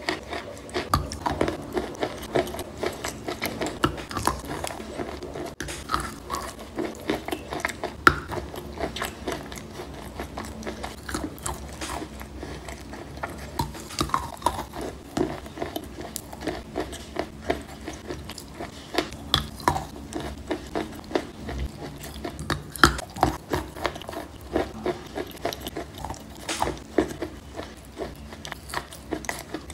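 A person chewing and biting wet chalk mixed with chalk paste: a dense, irregular run of small wet crunches and mouth clicks.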